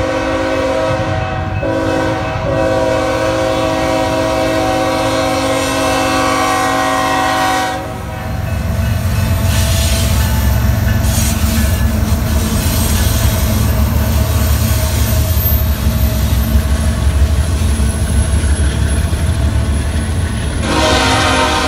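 BNSF freight train's diesel locomotive air horn blowing a long chord with one short break as it approaches a grade crossing. After about eight seconds the horn stops and the locomotives pass close by with a heavy low rumble of engines and wheels on rail. Near the end a train horn sounds again.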